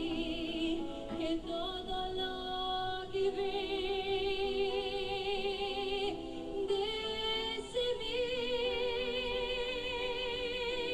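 Recorded song: a woman singing long held notes with a wide vibrato, over a soft accompaniment.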